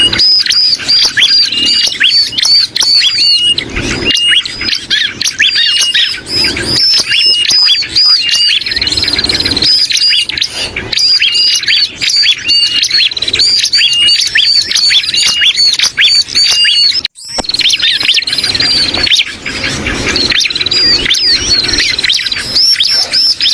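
Bird-luring recording mixing bar-winged prinia (ciblek) calls with agitated and distressed calls of sooty-headed bulbul (kutilang): a dense, loud stream of high chirps and short repeated notes with no pause, broken only by a momentary gap about two-thirds of the way through.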